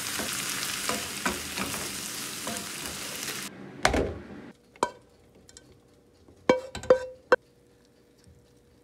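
Sliced onions and garlic sizzling steadily in a nonstick frying pan, stirred with a wooden spatula that makes small scraping taps. The sizzle cuts off suddenly. A dull knock follows as a ceramic bowl is handled in a wooden bowl, then a few sharp clicks of metal tongs against the bowl.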